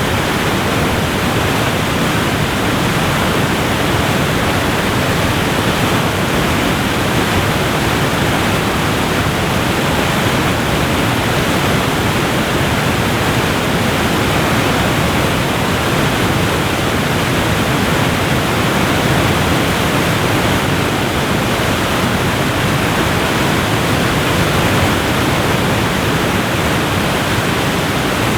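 Waterfall rushing: a steady, dense noise of falling water, even throughout with no breaks.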